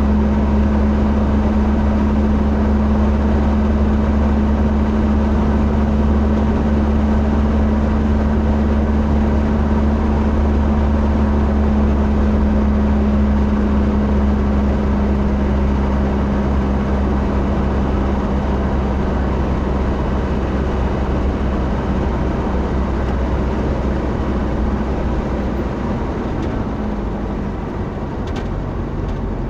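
Steady running drone of a motor vehicle: a low rumble under a constant engine hum, easing off slightly near the end.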